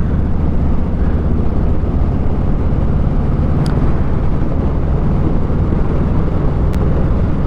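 Motorcycle engine running at a steady cruise, with constant road and wind noise.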